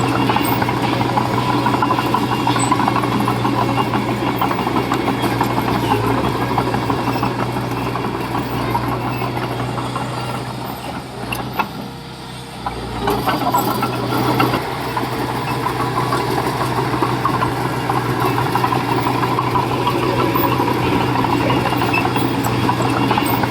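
Komatsu mini bulldozer's diesel engine running steadily. It eases off for a couple of seconds about halfway through, then picks back up.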